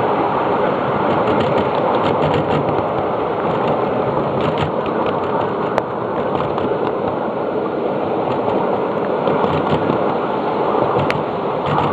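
Steady rumble of a 7.5-inch gauge ride-on train's wheels running along the track, with scattered sharp clicks and clacks.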